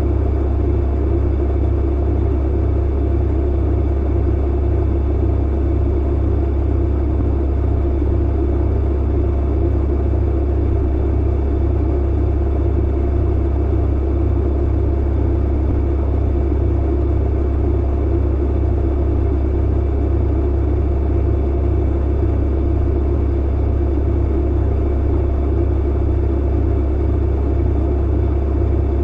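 Clothes dryer running steadily: a loud, deep, even hum with a rumbling noise over it and no change in level.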